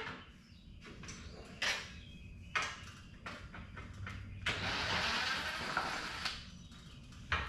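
Metal fastener hardware clicking and knocking as it is handled, then a cordless driver running for about two seconds, backing out a T25 Torx screw, about four and a half seconds in.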